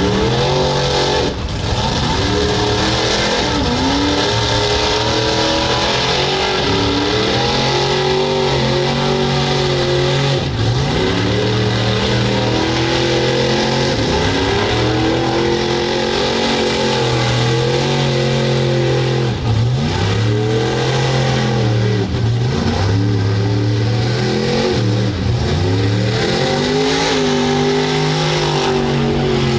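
Mud truck engine revving hard and continuously, its pitch repeatedly sagging under load and climbing back every second or two, as the truck churns through a mud pit.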